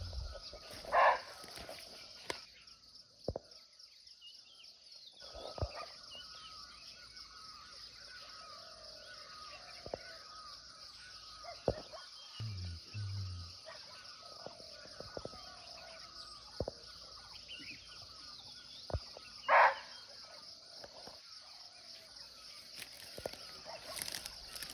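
Barking deer (muntjac) giving two single sharp barks, about a second in and again some eighteen seconds later. A steady high insect drone and faint bird chirps run underneath.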